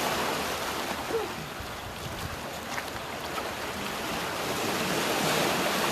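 Sea surf washing on the shore: a steady, noisy wash of water that swells about five seconds in.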